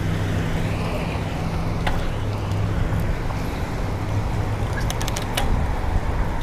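Road traffic with a motor vehicle engine running steadily as a low hum, and a few sharp clicks about two seconds and about five seconds in.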